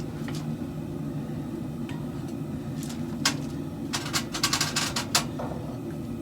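Forge running with a steady low rumble while the katana blade heats, with a sharp clink about three seconds in and a quick run of clinks and knocks about a second later.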